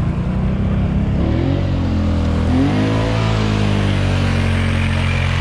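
ATV engine revving up, its pitch climbing about a second in and again about three seconds in, then held steady at high revs.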